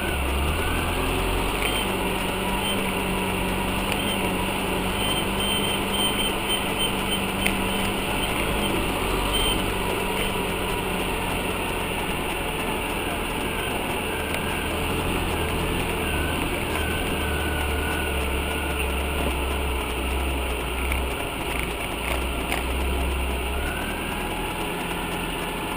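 UAZ off-road vehicle's engine running steadily.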